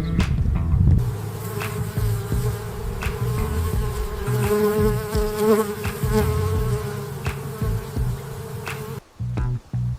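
A flying insect buzzing steadily, its wingbeat tone wavering slightly, until it breaks off about nine seconds in.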